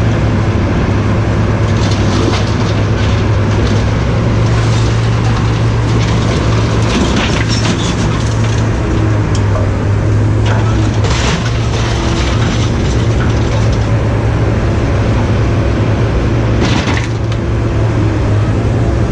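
A heavy engine running steadily, with scattered metal clanks and crunches as scrap is handled; one louder crack comes near the end.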